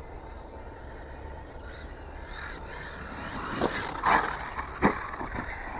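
Arrma Mojave 6S RC truck driving closer, its noise rising, with three sharp knocks in the second half as it hits the ground.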